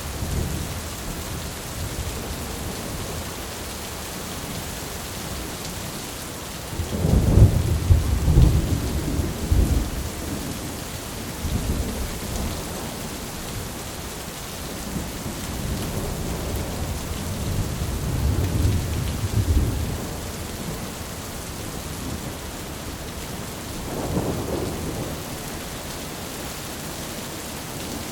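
Thunderstorm: steady rain with several low rolls of thunder, the loudest about a quarter of the way in and further rumbles around the middle and near the end.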